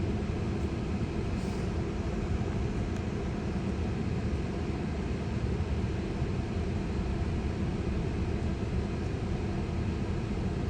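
Steady low rumble of cabin noise inside a Tesla, without change or break.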